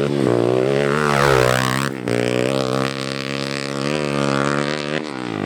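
Pit bike engine running and revving, its pitch rising and falling, with a brief break about two seconds in.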